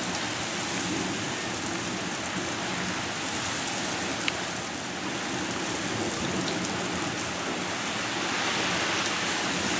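Heavy downpour: rain pouring steadily and hard, growing a little louder near the end.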